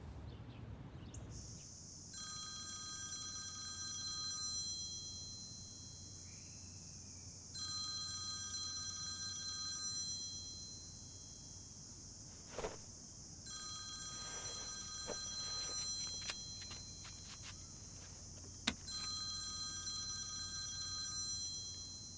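A telephone ringing on a call waiting to be answered: a multi-tone electronic ring in four bursts of about two and a half seconds, each about three seconds apart, over a steady high hiss, with two sharp clicks between the rings.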